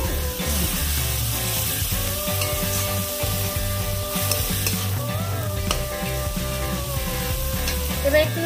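Onion paste and ground spices sizzling in hot oil in a pan while being stirred: the masala for a fish curry frying down. Background music plays over it.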